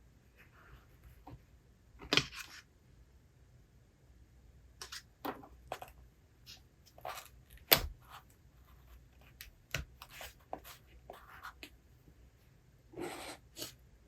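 Small handling sounds of someone reading a book at a desk: scattered light taps and clicks with a few short paper rustles, one about two seconds in and a longer one near the end, and a sharper tap about halfway.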